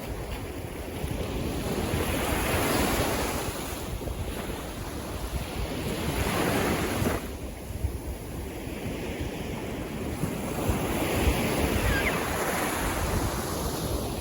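Sea waves washing in, the surf swelling and easing every few seconds, with wind buffeting the microphone.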